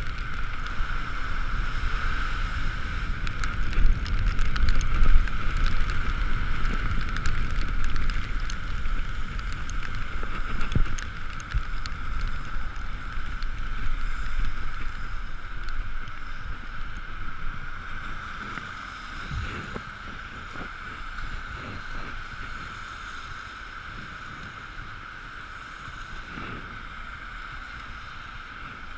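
Ekoway ML5000 electric scooter riding on a wet road in the rain: wind buffeting the camera microphone, tyres hissing on the wet surface, and a steady high whine from the running electric drive. The rumble eases off in the second half as the scooter slows.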